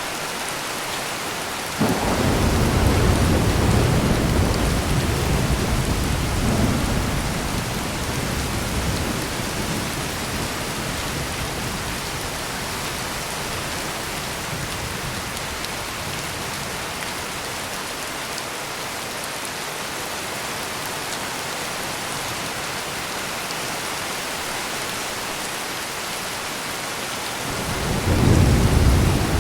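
Heavy rain pouring steadily. A thunderclap breaks about two seconds in and rumbles away over the next several seconds, and a second roll of thunder builds near the end.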